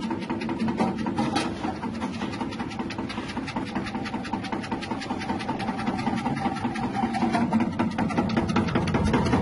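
Electric cassava chip slicing machine, driven by a small electric motor, running with a steady hum and a rapid ticking.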